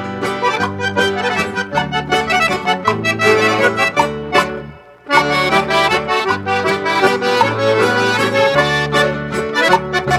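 Instrumental music led by accordion, with a bouncing bass line and a steady beat, in a traditional dance style. The music breaks off for about half a second near the middle and comes back in strongly.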